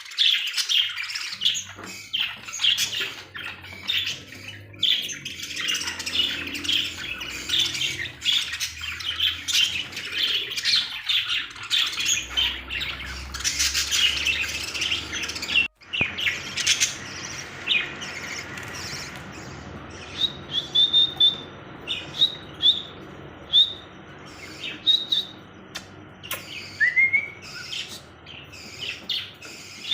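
A flock of caged parrots chirping and squawking all at once. After a short break about halfway through, the chatter thins out to fewer, sharper chirps, some repeated in quick runs.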